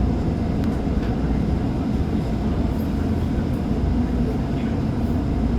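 Tokyo Metro 05 series subway train running steadily between stations, heard from inside the car: a continuous low rumble of wheels on rail with a few faint clicks.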